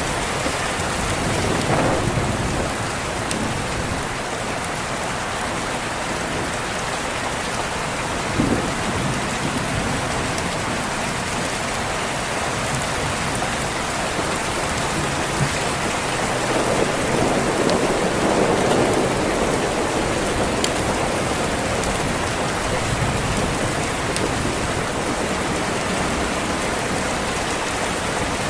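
Steady rain on a window, an even hiss of drops. A little past the middle a low rumble of thunder swells for a few seconds and fades. There are a couple of short sharp knocks in the first third.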